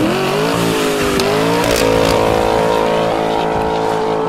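Dodge Challenger R/T Scat Pack's 6.4-litre HEMI V8 through a Kinney's Tunnel Ram custom exhaust, revving up and then held at high revs, with the pitch stepping up once more about a second and a half in and then staying steady.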